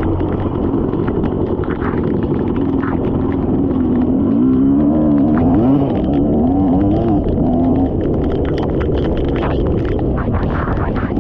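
Dirt bike engine running, its pitch rising and falling a few times in the middle, with scattered short clicks and scrapes.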